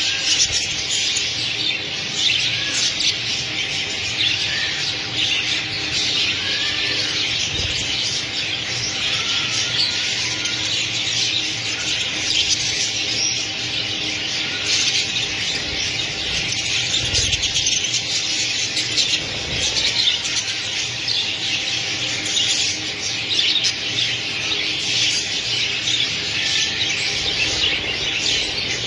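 A flock of budgerigars chirping and chattering together in a dense, unbroken, steady chorus of short high calls.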